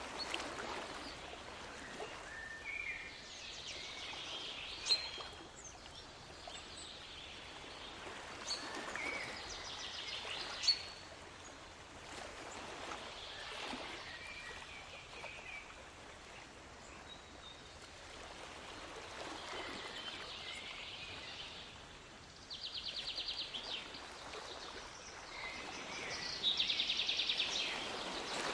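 Sea waves washing in and drawing back in swells every few seconds, with birds chirping over them. Two fast rattling bird trills near the end are the loudest sounds.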